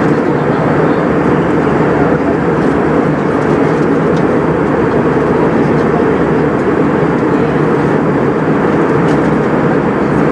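Steady cabin noise inside an Airbus A320 airliner: an even rush of engine and airflow noise that does not change.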